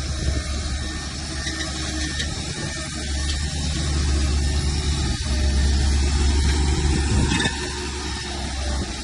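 Diesel engine of heavy earthmoving machinery running with a deep, steady drone, louder for a few seconds in the middle as it works harder, then easing back.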